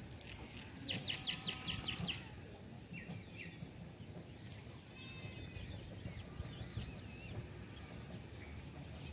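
Bird calls: a quick run of about eight sharp notes about a second in, then faint scattered chirps.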